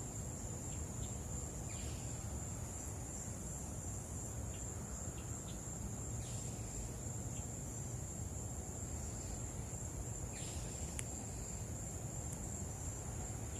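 Steady, unbroken high-pitched insect trill, typical of a cricket chorus, with a few short faint bird chirps scattered through it over a low background rumble.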